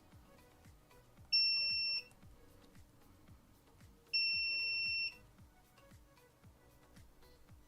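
Multimeter continuity beeper sounding twice, a short steady high beep and then a slightly longer one, each time the probes find a connection below the set resistance threshold.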